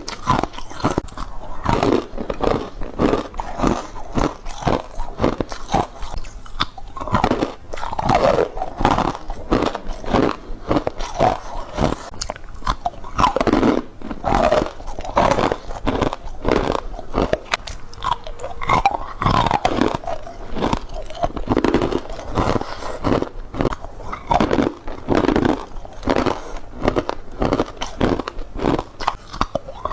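Ice being bitten and chewed close to the microphone: a rapid, continuous run of loud, sharp crunches, with some gritty, squeaky grinding between them.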